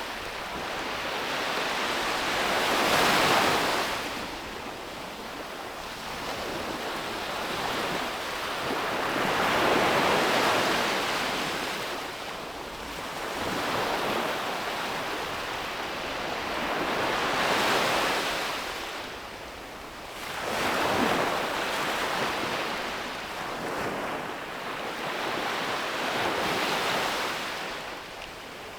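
Ocean waves breaking on a beach, each wash of surf swelling and fading in turn, about one every seven or eight seconds, with a little wind on the microphone.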